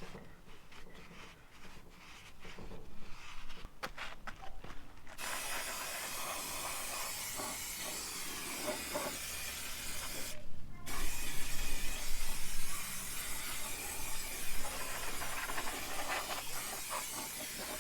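Aerosol degreaser hissing as it is sprayed onto a grease-caked motorcycle rear wheel, in two long bursts with a short break about ten seconds in. Before the spraying starts, a few seconds of light clicks and handling noise.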